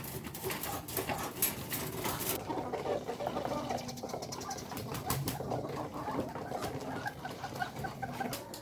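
Ayam kampung village chickens clucking softly and continuously, with many short sharp clicks and taps throughout.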